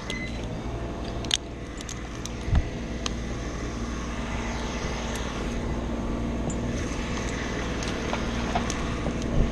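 A steady engine-like hum, with a few sharp clicks and knocks over it.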